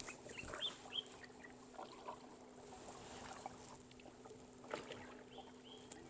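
Kayak paddle dipping into calm water, with quiet small splashes and drips falling from the blade and a light knock about five seconds in.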